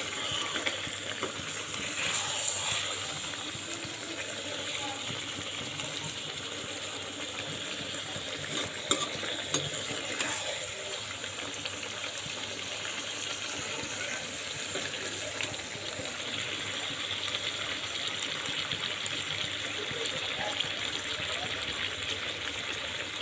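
Chicken masala frying in oil in a metal kadai, sizzling steadily as a spatula stirs it. A few sharp clicks of the spatula against the pan come near the start and around nine and ten seconds in.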